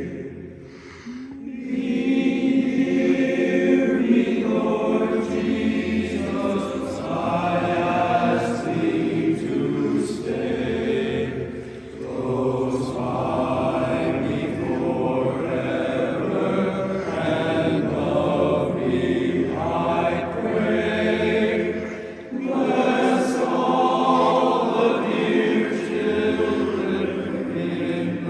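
A barbershop chorus singing a cappella in close harmony. There are brief breaths between phrases about a second in, around the middle, and about three quarters of the way through.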